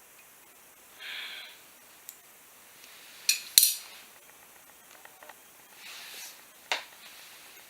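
Metal hand tools and engine parts clinking and scraping during an engine teardown: scattered sharp clinks, the loudest pair about halfway through, with short scraping noises between them.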